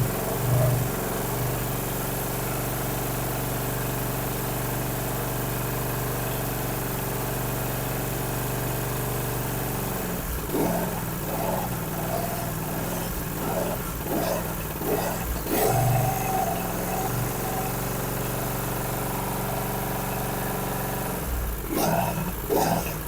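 Kawasaki V-twin engine of a John Deere Z665 zero-turn mower running on a newly fitted fuel pump. It runs steadily for about the first ten seconds, then its note turns uneven and fluctuating.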